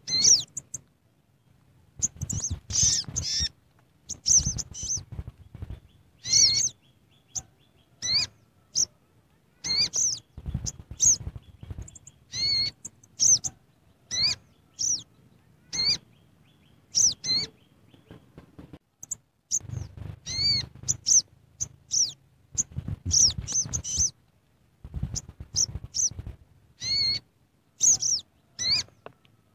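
Short, high, sharp chirps repeated irregularly in clusters, bird-like, with low thuds or rustling under some of them.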